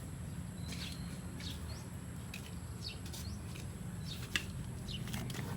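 Small birds chirping now and then in short, quick calls over a steady low hum, with one sharp click about four seconds in.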